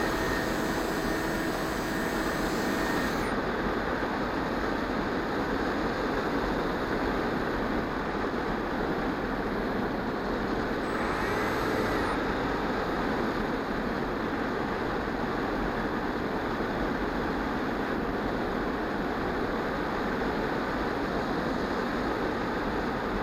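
EasyStar 2 RC model plane's electric motor whining steadily, cutting out about three seconds in. A steady rush of air carries on through the rest, with a brief burst of motor whine a little before halfway.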